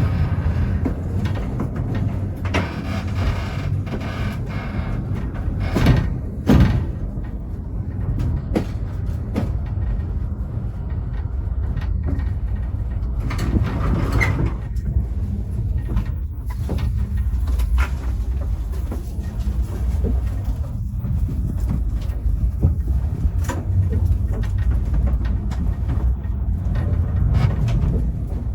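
Vintage steam-train carriage rolling along the track: a steady low rumble with occasional knocks and rattles.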